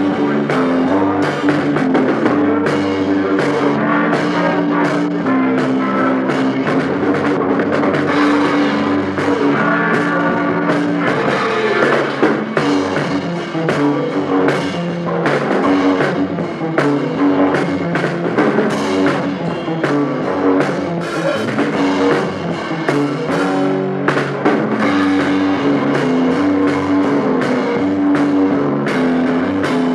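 Rock band rehearsing, recorded live on low-quality equipment: drum kit, electric guitar and bass playing a steady beat.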